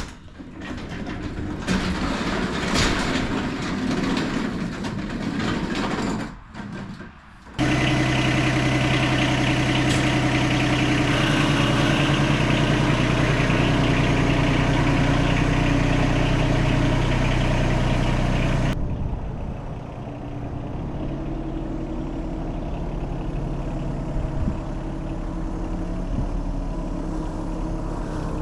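Yanmar SA221 sub-compact tractor's three-cylinder diesel engine. After several seconds of rough noise, the engine comes in abruptly and runs steadily at a higher speed. About two-thirds of the way through it drops suddenly to a quieter, steady idle.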